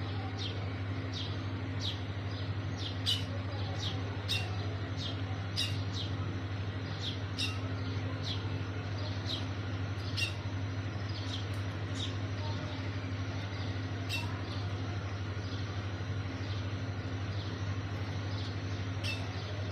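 A bird calling with short, high, down-sweeping chirps, repeated about once a second, over a steady low hum.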